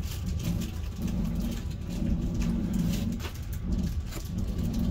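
Cabin noise of a Wengernalp Railway rack train on the move: a steady low rumble with scattered clicks and knocks from wheels and track.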